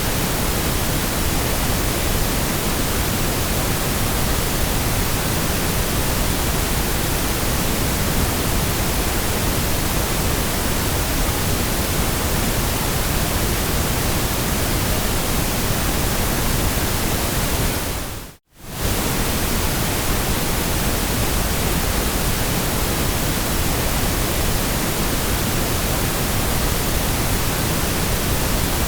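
Steady white noise, an even full-range hiss, that briefly cuts out about two-thirds of the way through and comes straight back.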